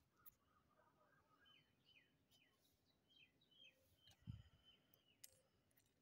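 Near silence, with faint bird chirps in the background, short calls that each drop in pitch, repeated several times. A soft low thump about four seconds in and a few faint clicks.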